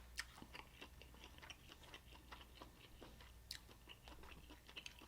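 Faint, close-miked chewing of seafood: many small irregular mouth clicks and smacks.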